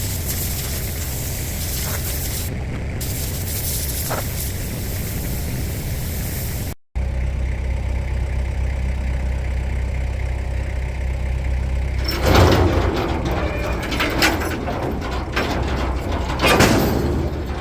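A motor running steadily with a hiss over it; the sound drops out briefly about seven seconds in. Several loud knocks about twelve seconds in and again near the end.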